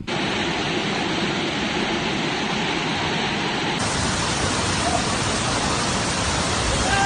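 Fast-flowing floodwater rushing, a loud, steady, unbroken wash of noise.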